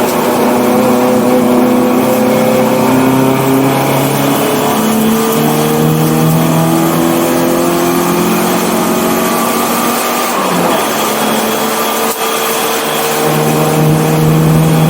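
1984 BMW 318i's four-cylinder engine pulling hard under acceleration, its pitch climbing and then dropping at gear changes, twice.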